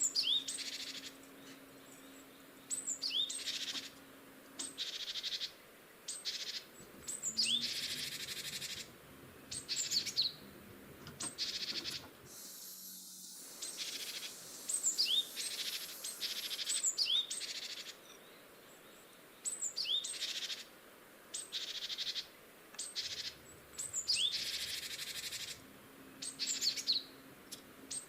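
Small birds chirping over and over in short, quick calls that drop in pitch. Short bursts of hissing noise come and go among them every second or two.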